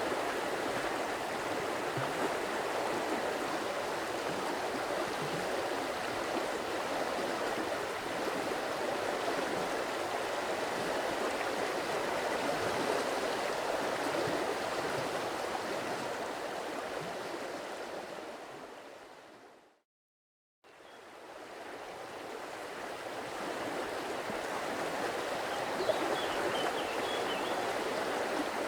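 Stream water flowing steadily over rocks with a continuous rushing babble. About two-thirds of the way through it fades out to a second of silence, then fades back in.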